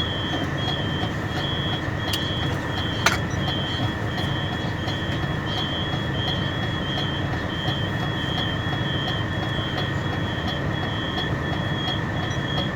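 Mercedes-Benz Actros 2636's V6 diesel with an open, unmuffled exhaust running steadily, with a high beep repeating at an even pace throughout and a single sharp click about three seconds in.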